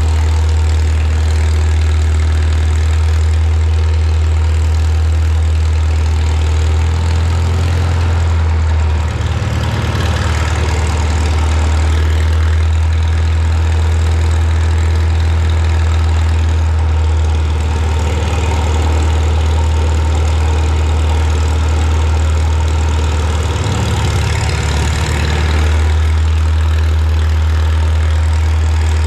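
A choke-started gasoline engine running steadily at idle, with a strong, even low hum.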